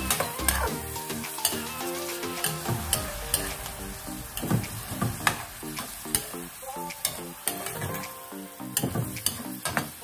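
Beef and potato chunks frying in an aluminium pot, sizzling while a metal spoon stirs and scrapes them, its edge clicking and knocking against the pot again and again. Background music plays underneath.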